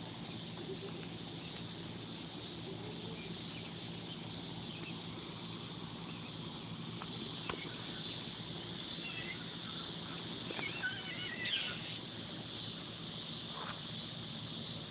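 A bird gives a run of quick, high chirps between about nine and twelve seconds in, over a steady low hum.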